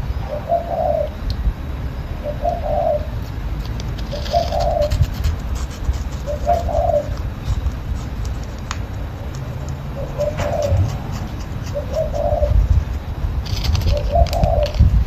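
A bird cooing in a dove-like way: about seven short, soft coos, one roughly every two seconds with one longer pause midway, over a low rumble.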